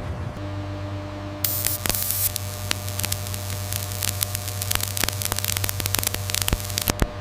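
Factory ambience: a steady low electrical hum, with dense irregular crackling clicks setting in about a second and a half in, along with a brief hiss.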